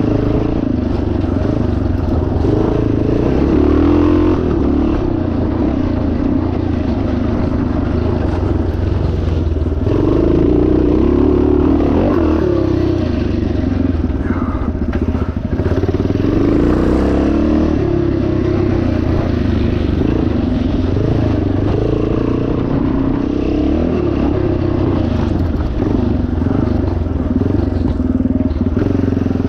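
Yamaha TT500 four-stroke single-cylinder engine running under load on a dirt track, the revs rising and falling continuously through the whole stretch.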